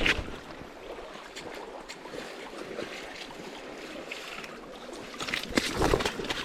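Rushing river water with splashing. A louder burst comes about five and a half seconds in, and wind buffets the microphone.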